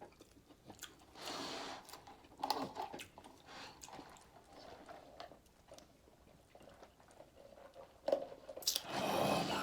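A person eating close to the microphone, biting and chewing crisp fried chicken wings, in a few separate bursts of crunching with quieter chewing between.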